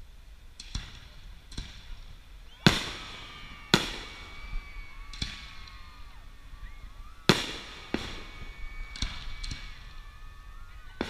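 Aerial fireworks display bursting: about nine sharp bangs at irregular intervals, three of them much louder than the rest, each trailing off in a brief echo.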